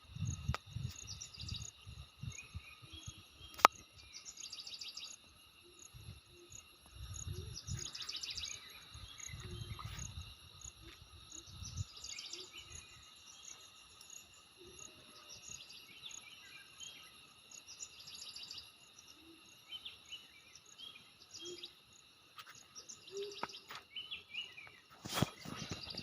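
Outdoor nature ambience: insects trilling steadily while birds chirp on and off, with occasional low rumbles. A single sharp click about three and a half seconds in is the loudest sound.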